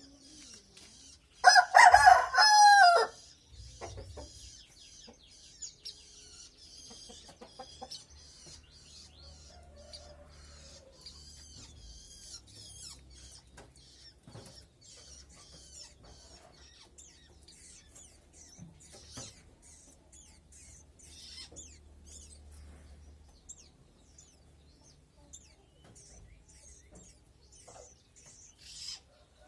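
A rooster crows once near the start, a loud call about a second and a half long. Afterwards there is faint, high, scattered chirping of small birds.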